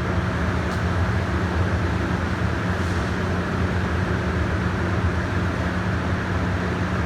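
Steady low mechanical drone with a deep, unchanging hum, the running machinery of a rail platform.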